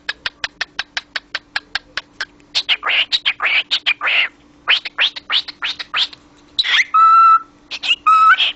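Cockatiel chattering: a rapid run of sharp clicks, about five a second, then a string of scratchy chirps and two short whistled notes near the end.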